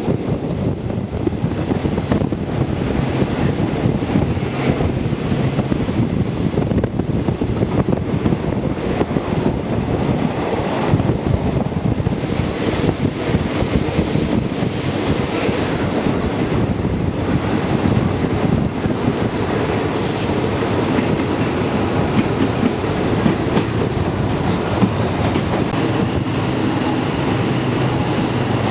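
Passenger train running along the line: a steady rumble of wheels and carriages on the track with rail-joint clatter, and a brief high squeal about two-thirds of the way through.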